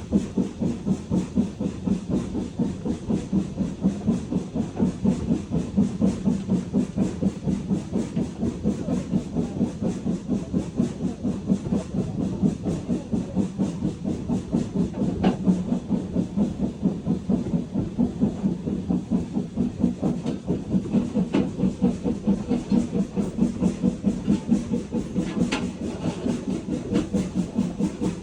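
Steam locomotive 80151, a two-cylinder BR Standard Class 4 2-6-4 tank engine, working steadily along the line: a regular beat of exhaust chuffs, about three a second, over a constant hiss.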